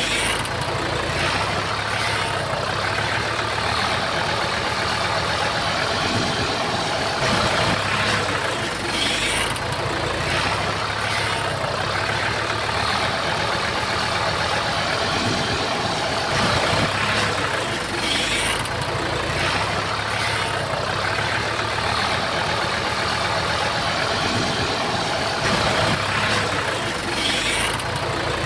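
Komatsu bulldozer diesel engines running steadily, with brief louder moments about every nine seconds.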